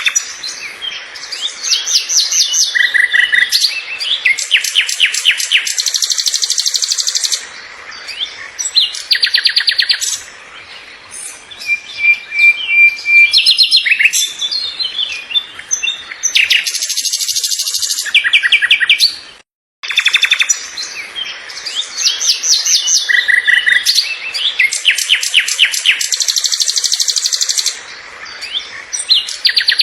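Birds singing: several overlapping songs of high chirps and fast trills repeated in phrases. The singing breaks off for a moment about twenty seconds in, then starts again.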